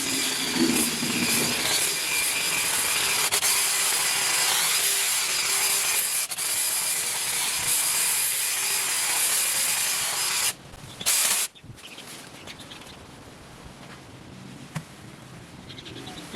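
A motorised garden power tool runs steadily, then cuts off suddenly about ten seconds in. A brief loud burst follows, then only faint background sound.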